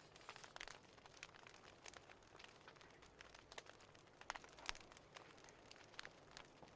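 Faint wood fire crackling: scattered sharp pops and snaps at irregular intervals over a soft hiss, a few louder snaps a little past the middle.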